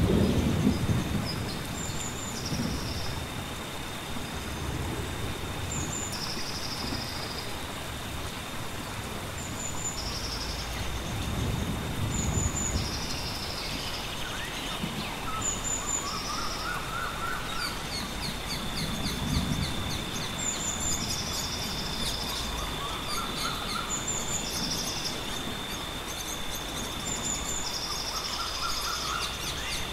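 Nature soundscape of birds chirping, short high calls repeating about every two seconds with a few lower warbled phrases later, over a steady high whine and an even hiss of rain. A low thunder rumble fades away at the start, and softer rumbles come and go through the middle.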